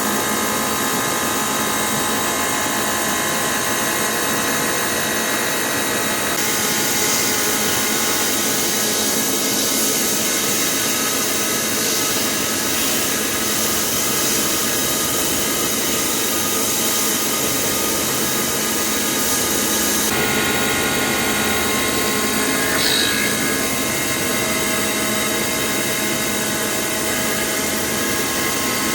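Hitachi Seiki VM50 CNC vertical mill cutting a steel mold with a 12 mm end mill turning at about 2800 rpm: a steady machining noise with several steady tones. The sound shifts abruptly about six seconds in and again about twenty seconds in.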